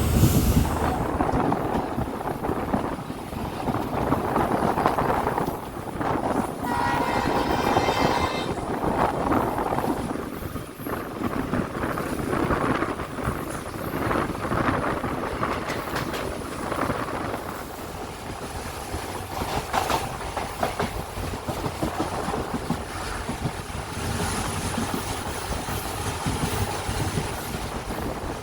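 Passenger train running along the track, with a steady rumble of wheels on rails. Its horn sounds once, about seven seconds in, for about two seconds.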